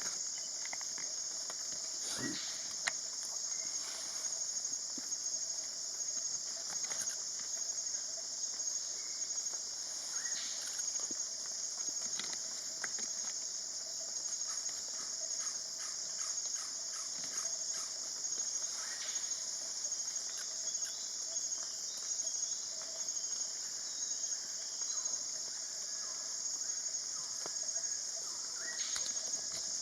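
Steady high-pitched insect drone, like cicadas or crickets, with a fainter steady lower hum, broken by scattered short chirps, calls and clicks.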